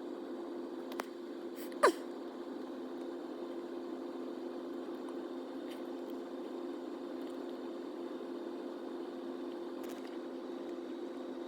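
A steady, even hum of a few mid-pitched tones, with one short rising chirp about two seconds in and a few faint clicks.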